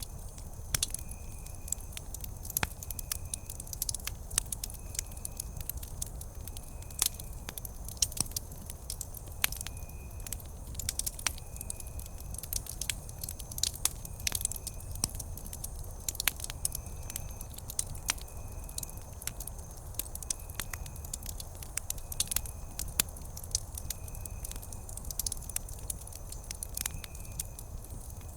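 Wood campfire crackling, with many irregular sharp pops and snaps over a steady low rumble. A faint, short, high-pitched chirp repeats about once a second.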